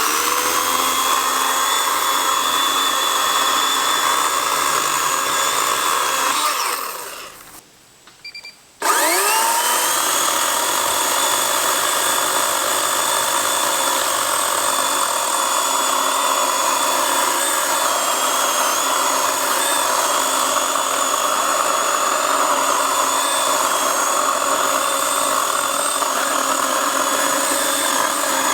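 Kobalt 80V cordless electric chainsaw running at full speed with a steady high whine. About seven seconds in the trigger is let go and the motor and chain spin down almost to a stop, then about nine seconds in it is triggered again, spins quickly back up and runs steadily.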